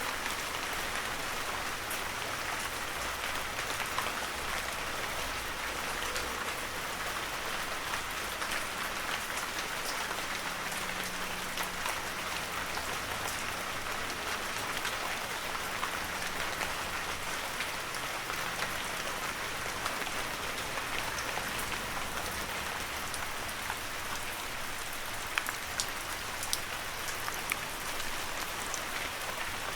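Heavy rain falling steadily, an even hiss with many individual drop ticks and a few sharper, louder drops near the end.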